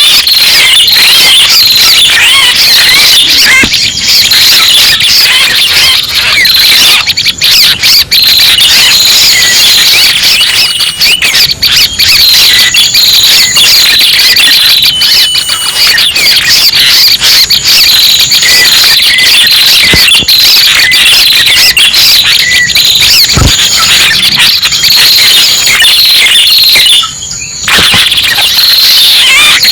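Bird-lure recording of prenjak pala merah (red-headed tailorbird/prenjak) calls, played to attract wild birds of that kind: dense, loud, unbroken high chirping and twittering, with a short dip about 27 seconds in.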